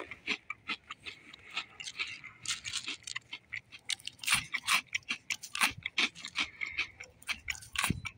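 Crunchy mini pancake cereal being chewed: a run of short, irregular crunches, a few a second.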